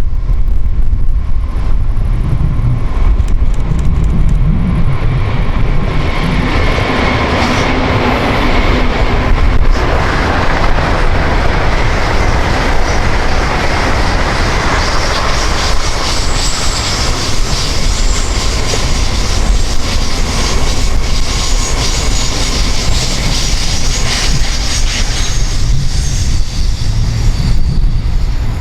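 A train passes, its wheels rolling on the track with a faint whine and some high wheel squeal in the second half, before the sound fades near the end. Wind on the microphone adds a steady low rumble throughout.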